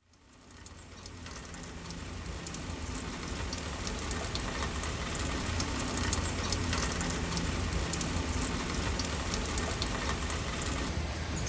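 Steady rain falling, with many individual drops pattering on surfaces; it fades in over the first few seconds and then holds steady.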